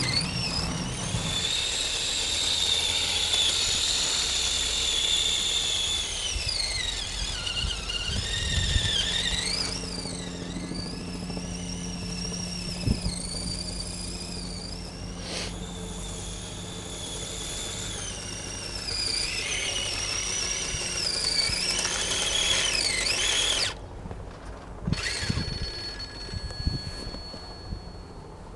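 Electric motor and gears of a radio-controlled Blizzard EP model whining, the pitch rising and falling as the throttle is varied. The whine cuts off suddenly near the end.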